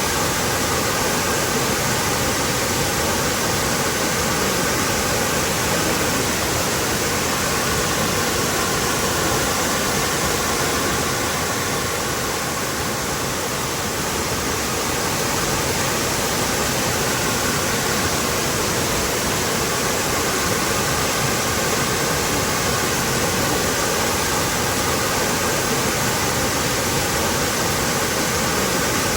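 Waterfall rushing steadily: a continuous, even wash of falling water.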